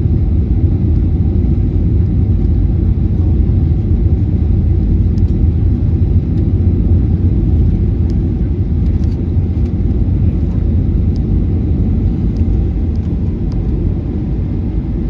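Steady low rumble of airflow and CFM56 engines heard inside the cabin of a Boeing 737-800 airliner in flight, coming in to land.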